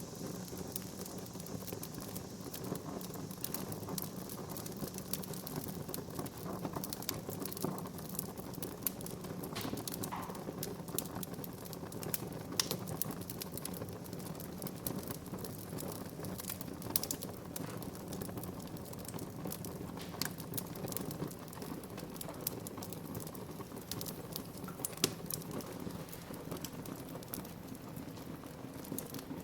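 Wood fire crackling in a fireplace: a steady low rush of burning with frequent sharp pops and snaps scattered all through.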